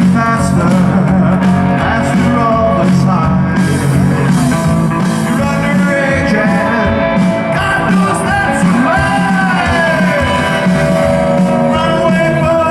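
Live rockabilly band playing loud: electric guitar with sliding, bent notes over upright bass and drums.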